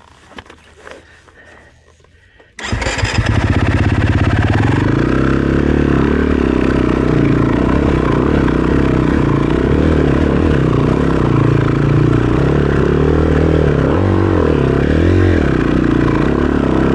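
Dirt bike engine starting suddenly about two and a half seconds in, then running steadily at idle for the rest of the time.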